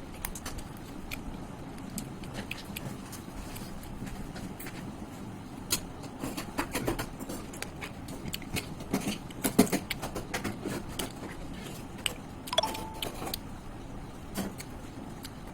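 A person eating curry and rice: scattered short, sharp mouth and food clicks and smacks from chewing and handling the food, bunching up near the middle and again later, over a steady background hiss.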